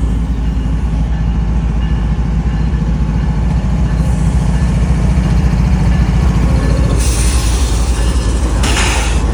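GE Evolution-series diesel locomotive running close by, a steady loud low engine rumble, with two short bursts of hiss near the end.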